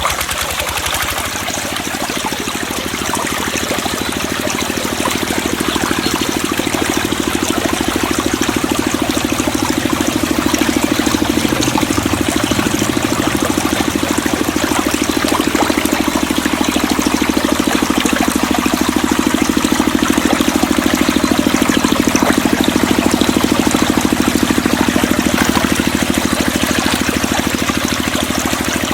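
Small motor-driven water pump running steadily, with water trickling and pouring.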